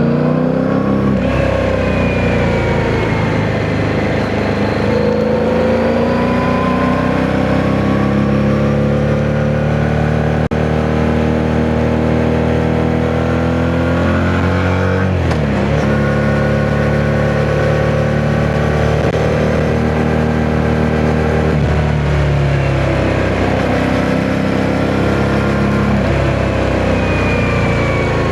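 Yamaha MT-07's parallel-twin engine under way, its note slowly climbing, dropping sharply about halfway through and again later before climbing again. Wind noise on the microphone runs underneath.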